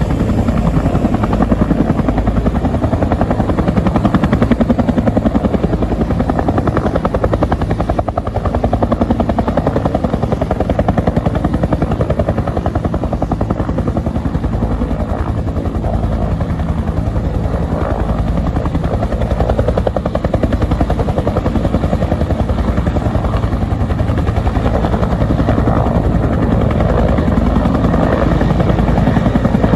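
Military helicopter, its rotor blades beating in a rapid even rhythm over a steady engine drone, loud throughout.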